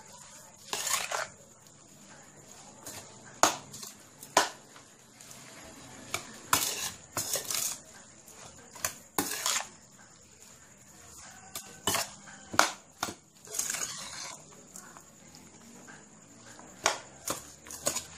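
Rice-noodle salad being stirred and tossed in a bowl with a utensil: scattered sharp clicks and knocks of the utensil against the bowl, with short scraping and squelching sounds between them.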